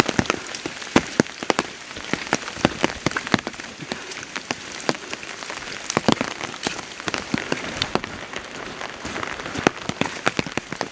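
Steady rain, with large drops landing on an umbrella close to the microphone as many sharp, irregular taps, several a second.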